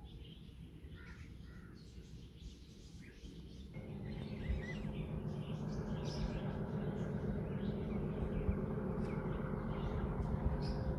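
Birds chirping with crows cawing. About four seconds in, a steady rumble sets in and slowly swells, the sound of an approaching train.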